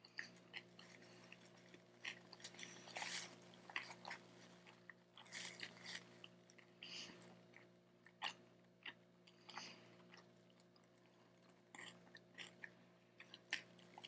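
A person chewing a big mouthful of chicharron (pork-skin) taco close to the microphone: faint, scattered short mouth clicks and smacks, several a second.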